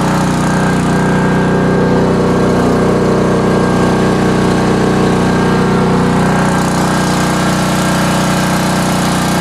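Portable generator's small engine running steadily, supplying emergency power during a power outage.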